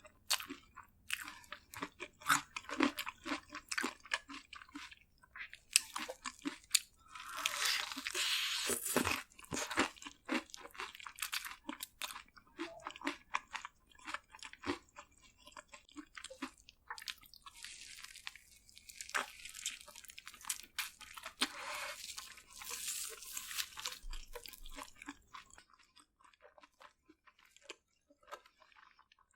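Close-miked mouth sounds of a person biting and chewing crispy fried food: wet chewing clicks with several longer crunching bites, thinning out near the end.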